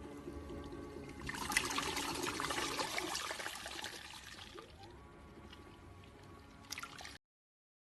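Folding mini washing machine running with a low motor hum, while water pours and splashes out loudly from about a second in for around three seconds, then fades to a trickle; a few clicks near the end.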